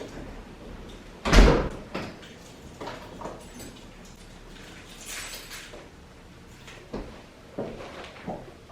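A loud thump a little over a second in, followed by several softer knocks and clicks.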